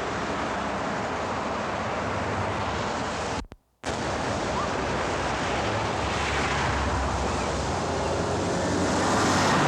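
Steady outdoor street noise with wind rumbling on the microphone, cut off for a moment by a brief dropout about three and a half seconds in; near the end the noise swells as a vehicle goes by.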